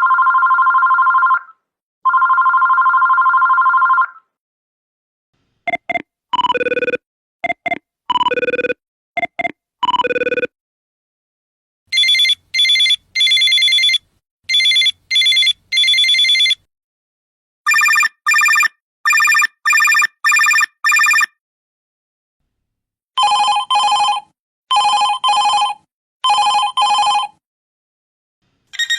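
A run of different telephone rings played one after another, with short pauses between them. It opens with two long two-tone electronic rings, then moves to groups of short ring pulses, higher trilling rings in bursts, six quick bursts and finally four bursts.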